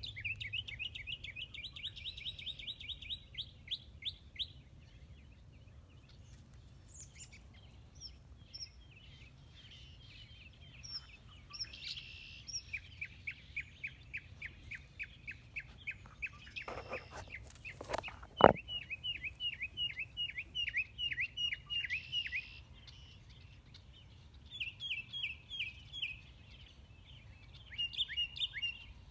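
Small birds chirping in quick repeated runs of several chirps a second, with short pauses between the runs. A single sharp knock about two-thirds of the way through is the loudest sound.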